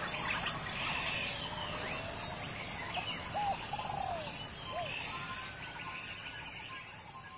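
Several wild birds calling and chirping together, a mix of short chirps and gliding, arched calls over steady forest background sound, fading out near the end.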